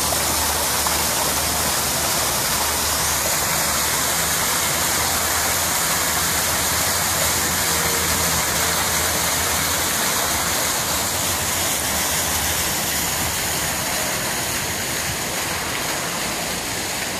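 Water pouring steadily over the stream stones of an artificial garden waterfall, a constant splashing rush.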